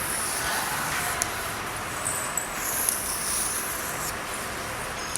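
Drawing on a board: faint, high-pitched scratchy strokes of a marker or chalk, with a few light taps, over a steady background hiss.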